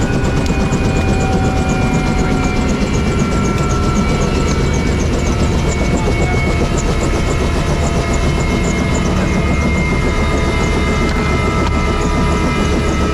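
Aircraft engine noise, loud and steady, with a few tones slowly falling in pitch.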